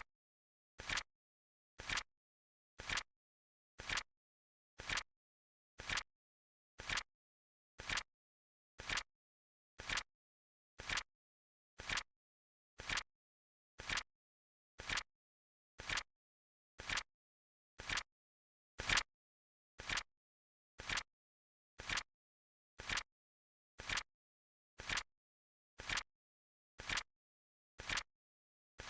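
Flip-clock timer's tick sound effect: short, sharp clicks exactly once a second, with dead silence between them. One click about two-thirds of the way through is louder than the rest.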